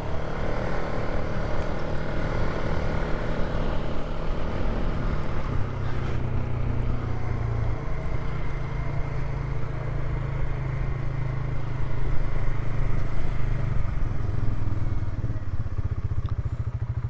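Polaris ATV engine running at a steady riding pace over dirt trail, easing off toward idle near the end.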